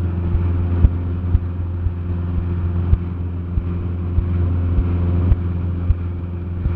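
Cessna 172SP's four-cylinder Lycoming IO-360 engine droning steadily in cruise, with irregular sharp clicks or knocks over it.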